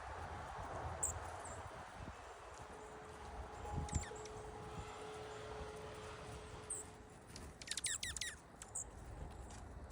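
Small wild birds calling: short, high chirps here and there, and a quick run of down-slurred notes about eight seconds in.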